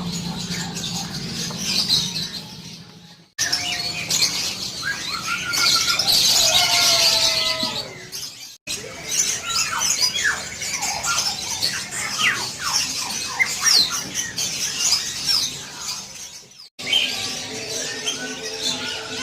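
Many caged songbirds chirping and calling over one another, with short sliding whistles among the calls. The sound breaks off abruptly and resumes three times.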